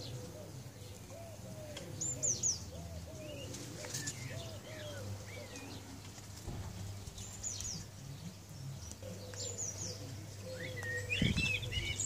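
Birds calling: short high chirps every few seconds, and a low cooing call repeated several times in the first few seconds.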